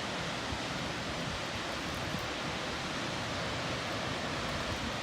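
Rainbow Falls, a waterfall, rushing steadily: an even, unbroken wash of falling water.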